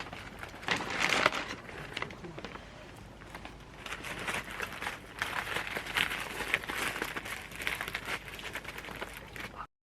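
Irregular crinkling and crackling with many small clicks, heaviest about a second in and again through the second half, cutting off suddenly near the end.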